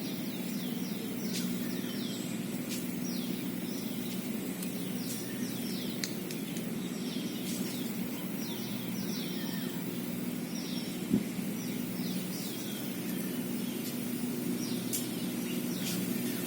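Birds calling over and over with short, falling chirps in quick clusters, over a steady low hum, with one brief knock about eleven seconds in.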